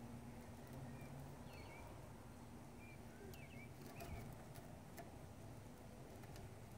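Near silence with a few short, faint bird chirps in the first four seconds or so, and a few light clicks.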